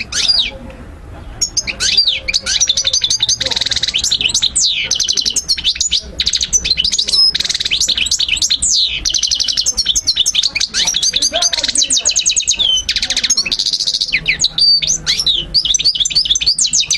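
European goldfinch singing: a long, rapid twittering song of fast trills, quick rising and falling notes and buzzy rattles, starting after a brief call and running on with hardly a pause.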